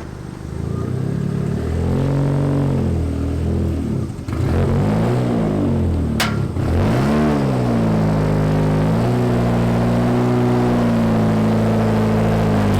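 Car engine revving up and falling back several times, then holding a steady pitch for a few seconds before another rev near the end. A single sharp click about six seconds in.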